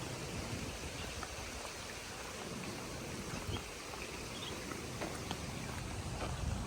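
Footsteps on a path with a steady outdoor hiss, light clicks scattered throughout, and low rumble of wind on the microphone.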